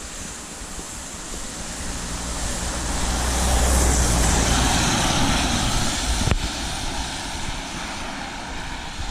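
A motor vehicle drives past on a flooded road. Its engine hum and the hiss of its tyres through water build to a peak about four seconds in, then fade away.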